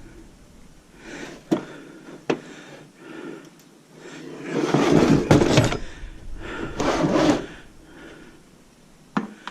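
Handling noise from a metal server battery-backup power-supply unit: scraping and sliding against a surface, with a few sharp clicks and knocks.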